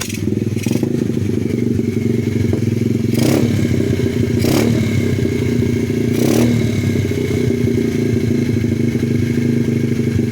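125cc pit bike's single-cylinder four-stroke engine running unevenly and choking, with three sharp pops into the muffler about three, four and a half, and six and a half seconds in. The owner thinks it may be sucking air where a manifold gasket is missing.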